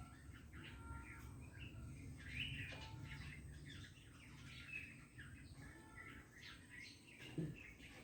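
Songbirds chirping: many short calls and twittering notes, over a low steady background rumble. A brief low thump about seven seconds in.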